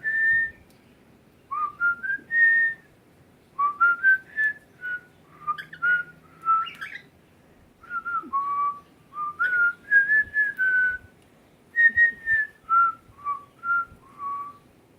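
A person whistling a melody in clear single notes with small upward slides into them, in short phrases broken by brief pauses.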